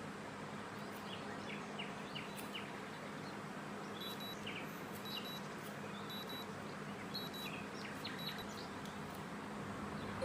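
Small birds chirping faintly outdoors, with short chirps and a brief high note repeated about once a second through the middle, over a steady low hum and background noise.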